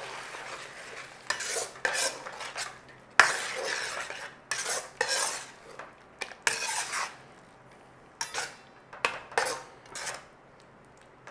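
A spoon scraping and stirring in a pan of chicken as cashew paste is added, in a run of short, irregular scrapes with a sharp clink about three seconds in.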